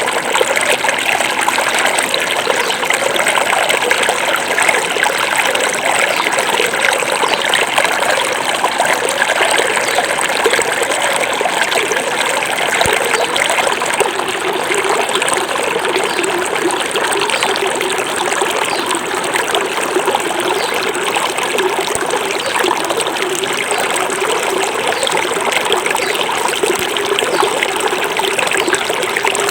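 Small forest river flowing steadily over stones, a continuous babble of running water with trickling and gurgling.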